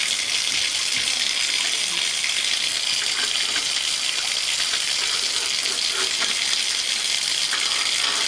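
Steady rushing hiss of running water, even throughout with no breaks, its energy mostly in the higher range.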